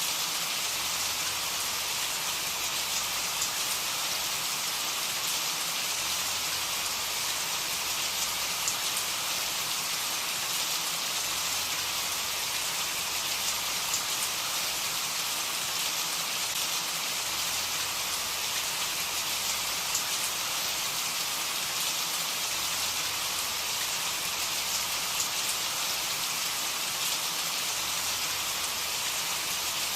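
Steady rainfall, an even hiss of rain with fine drop patter and no thunder.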